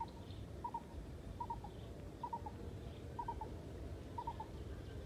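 A bird calls over and over, each call a quick group of two or three short notes, repeated roughly once a second.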